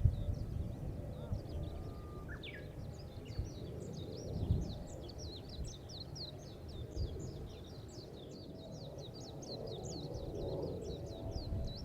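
A songbird singing a long, fast run of short high chirps, several a second, with one rising whistle just before it starts. Gusty wind buffets the microphone underneath.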